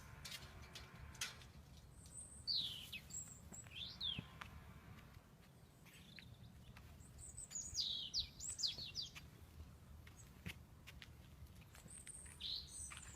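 Small birds chirping: a few bursts of quick, high chirps that sweep down in pitch, spaced a few seconds apart, with a few faint clicks between them.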